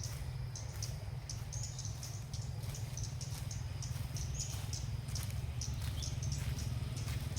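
Ốc mít birds giving short high chirps, repeating irregularly about twice a second, over a steady low rumble.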